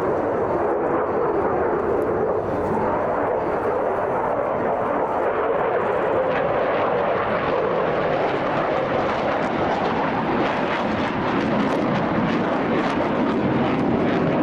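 Eurofighter Typhoon fighter jet in flight, its twin turbofan engines making a steady, loud rush of jet noise.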